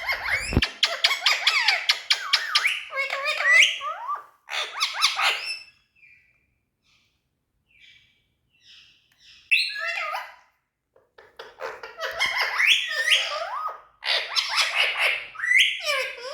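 Indian ringneck parakeet chattering in rapid bursts of quick, sliding whistles and squawks. It pauses for a few seconds partway through, then starts again.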